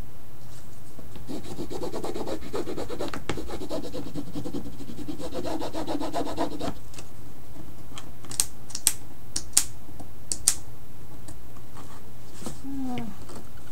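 Rapid back-and-forth rubbing strokes on the painting surface for about five seconds, then a handful of sharp taps. Near the end there is a short falling tone.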